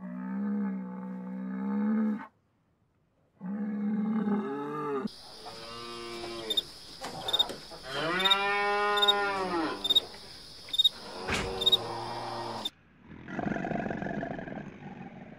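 Cattle mooing: two low moos with a short silence between them, then a longer moo that rises and falls in pitch. Near the end the mooing stops and gives way to a rough, noisy sound.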